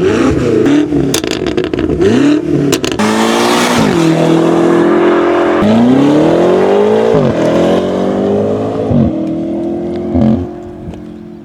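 BMW F90 M5 twin-turbo V8 revved several times through a Yonristic aftermarket catback exhaust, the pitch climbing and dropping sharply with each rev and crackling pops between the quick blips in the first few seconds. Near the end it settles back to a steady, quieter idle.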